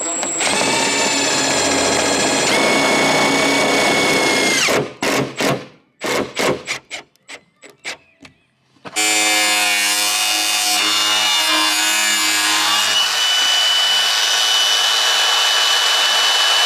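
Handheld power tool running with a steady whine for about four seconds, then a few short bursts, then a second long run from about nine seconds in whose tone shifts partway through.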